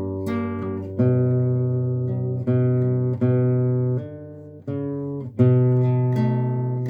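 Acoustic guitar playing slow strummed chords, each ringing out and fading before the next.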